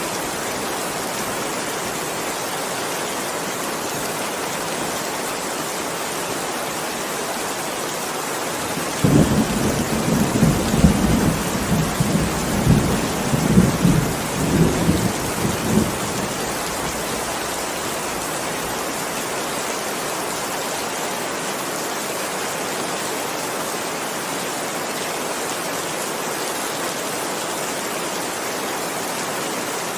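Steady heavy rain hissing without a break, with a low rumble of thunder rolling for several seconds about a third of the way in.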